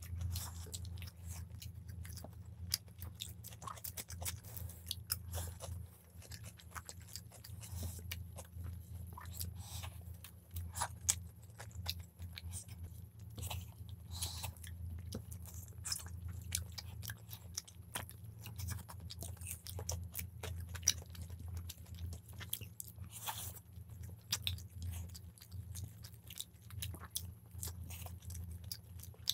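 Two people chewing mouthfuls of chicken biryani and chicken, with many small sharp mouth clicks, over a steady low hum.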